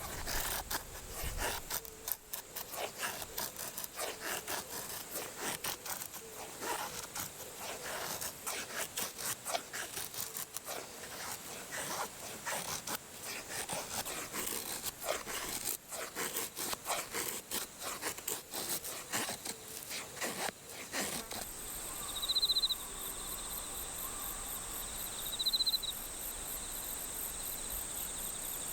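A knife shaving a stick of firewood into a feather stick, a quick run of short scraping strokes. About 21 seconds in this gives way to insects: a steady high drone with a few short chirps about three seconds apart.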